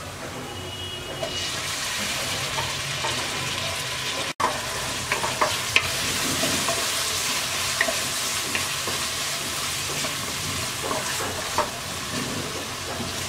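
Chopped onion and tomato frying and sizzling in hot oil in a steel wok, stirred with a wooden spatula that clicks now and then against the pan. The sizzle grows louder about a second and a half in.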